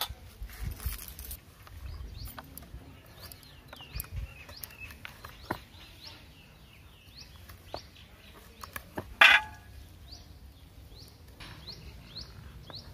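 A small bird calling over and over with short, high, hooked chirps. Light handling clicks, and one loud sharp clack about nine seconds in.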